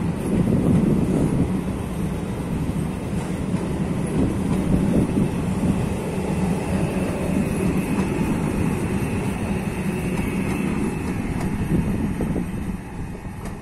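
Trenitalia Rock ETR 521 double-deck electric multiple unit pulling out of the station: a steady rumble of wheels and running gear as the coaches roll past, with a faint high whine in the middle. It gets quieter near the end as the tail of the train draws away.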